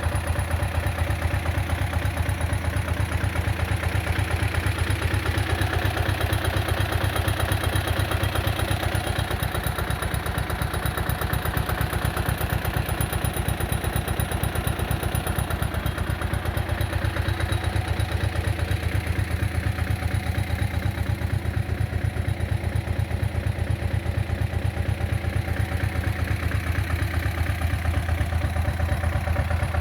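Barbieri Terratrack tractor's engine running steadily at an even speed, with a rapid, even pulsing beat.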